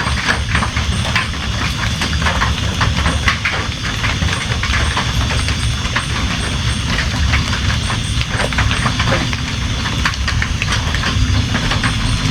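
Steady heavy rain: a dense hiss with a low rumble underneath and many separate drops tapping sharply through it.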